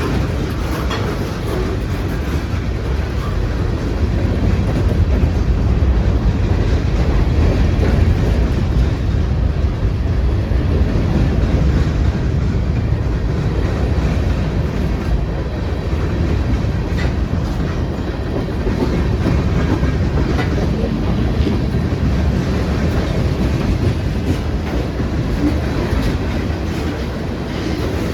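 A train rolling past, its wheels rumbling steadily on the rails, swelling a little louder partway through.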